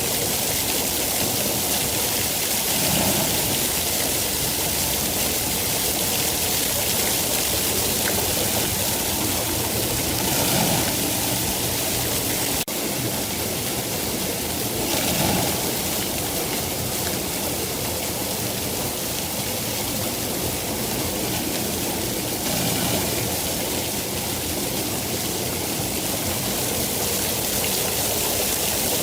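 Steady rain falling, an even hiss of drops with no distinct single hits, and a brief dip in level about halfway through.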